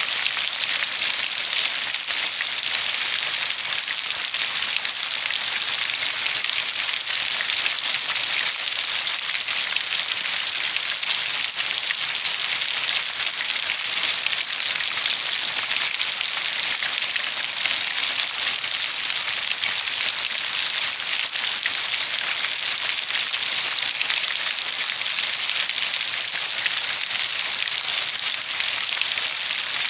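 Steady heavy rainfall: an even hiss of rain falling on a surface, with no pauses or single loud events.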